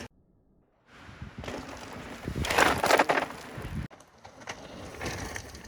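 Strong wind buffeting the microphone in gusts, loudest about two and a half to three seconds in, after a near-silent first second.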